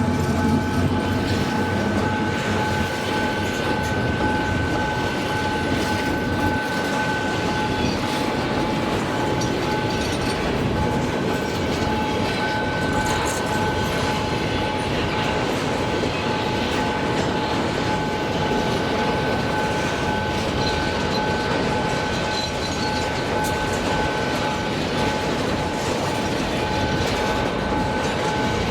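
Freight train passing steadily, wagons rumbling over the rails with a steady high-pitched whine held over the rumble.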